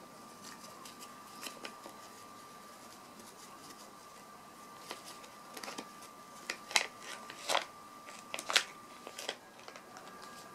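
Cat crunching crunchy dry treats (Monpetit Crispy Kiss): a run of sharp crunches, sparse at first and coming closer together and louder from about five seconds in, over a faint steady tone.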